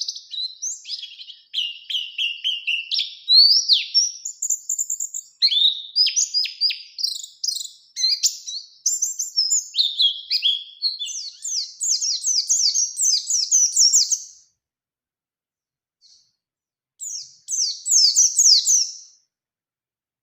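White-eye (pleci) singing a fast, continuous run of high chirps and trills. It breaks off about two-thirds of the way through, and one more short trilled phrase comes near the end.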